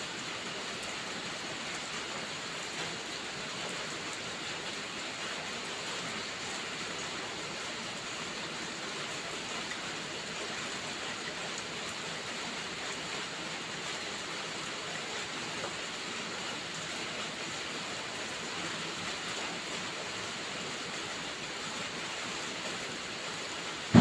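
Steady rain falling, an even hiss that runs unchanged throughout.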